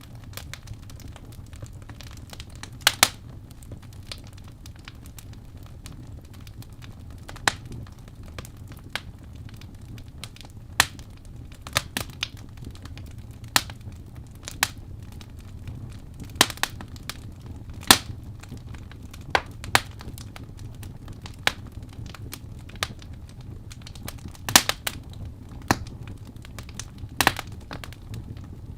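Wood fire crackling in a fireplace: irregular sharp pops and snaps, a few every couple of seconds, over a steady low rumble of the burning.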